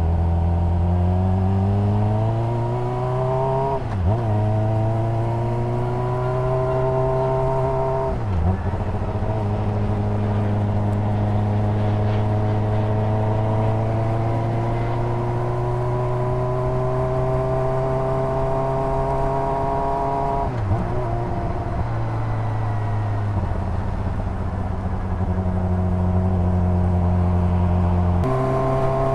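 Honda CBR600RR's inline-four engine and exhaust accelerating through the gears: the pitch climbs and drops back at three upshifts, then holds fairly steady while cruising, and the revs jump up near the end.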